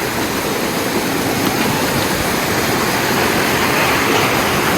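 Mountain stream rushing over rocks: a loud, steady rush of water, growing a little louder toward the end.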